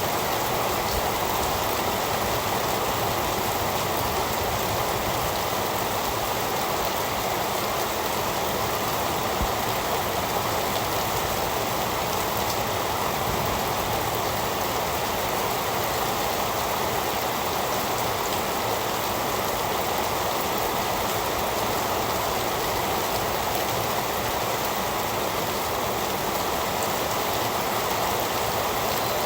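Steady heavy rain falling on a surface, an even rushing hiss with no thunder or single drops standing out.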